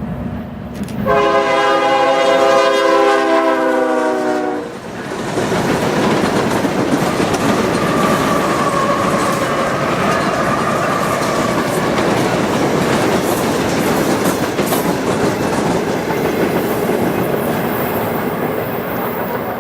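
Diesel locomotive horn sounding one long chord blast of about three and a half seconds, followed by the locomotive passing close by: a loud, steady rumble of engine and wheels on the rails.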